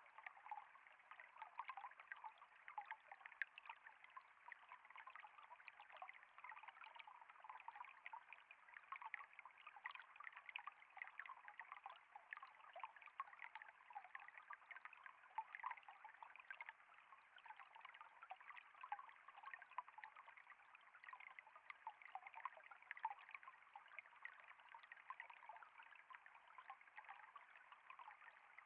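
Faint, steady trickle of flowing water, with many small irregular splashes and drips.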